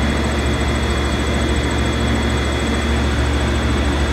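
Trane air-conditioning condensing unit running: a steady fan rush over a low hum.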